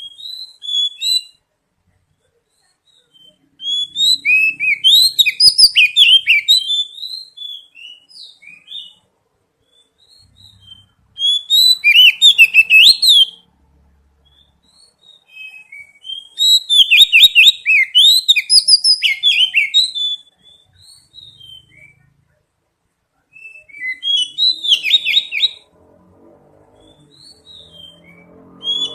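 Oriental magpie-robin (kacer) song: rapid, varied whistled and chattering notes, delivered in loud phrases of two to three seconds separated by short pauses.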